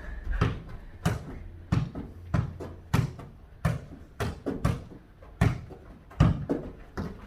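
A ball being kicked back and forth and bouncing in a fast jokgu (foot volleyball) rally: a string of sharp thuds, about one every half second to second.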